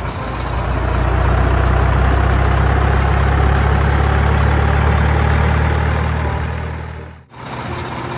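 Heavy diesel engine running loud and steady with a deep drone. The drone eases off about six seconds in and breaks off abruptly about seven seconds in, and a quieter engine sound carries on after.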